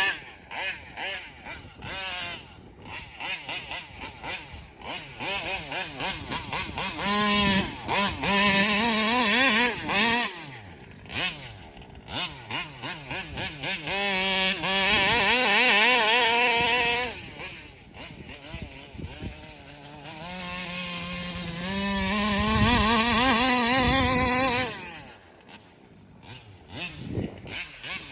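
Taylor 35cc reed-valve two-stroke engine in a large-scale RC car, revved in short throttle blips and three longer full-throttle runs as the car is driven. Its pitch wavers up and down throughout.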